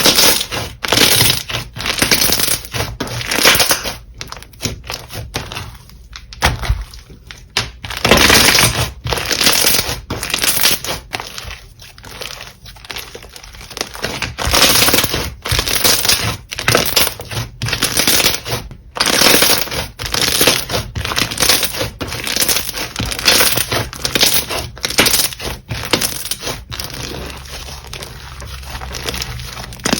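Slime being squeezed, pressed and stretched by hand, making a continual run of irregular squishing and crackling bursts with a few short quieter gaps.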